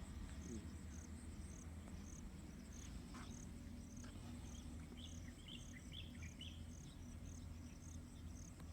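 Insects chirping in an even, steady rhythm, about two high short chirps a second, with a few lower chirps joining in about halfway through.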